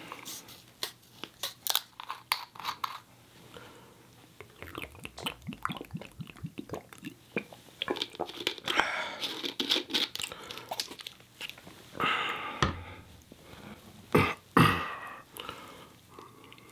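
A person chewing French fries with the mouth close to the microphone, giving many short wet clicks and crunches. Louder bursts of chewing come a few times in the second half.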